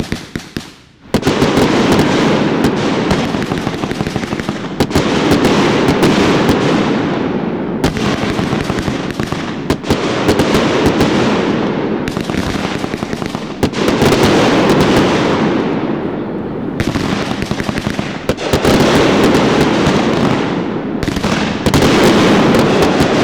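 Fireworks going off in a dense barrage: a rapid run of sharp cracks at the start, then continuous crackling and bangs in overlapping waves that swell again every two to three seconds.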